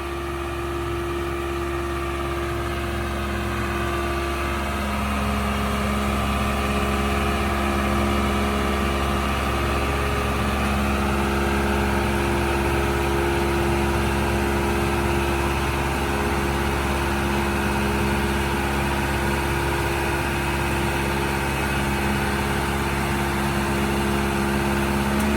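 Small boat engine running steadily, getting a little louder over the first several seconds, then holding an even note.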